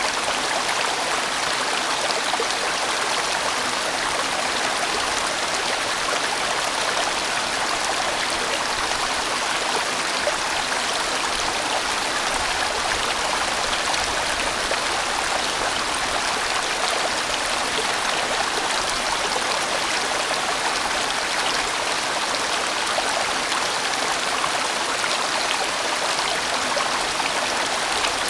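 Mountain stream of good size flowing over rocks in a broad, winding bend: a steady, dense rush of water.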